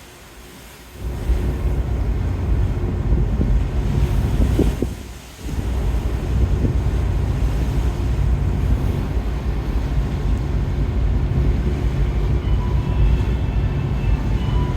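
Strong wind buffeting the microphone: a heavy, gusty low rumble that starts about a second in, drops out briefly around five seconds in, then blows on.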